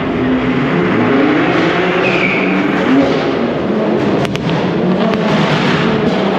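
Car engines revving, with the pitch gliding up over the first few seconds, over a dense noisy background; a few sharp cracks come about four to five seconds in.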